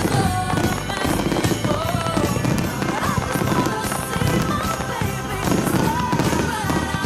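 Aerial fireworks bursting in quick, repeated bangs over loud music with a melody playing.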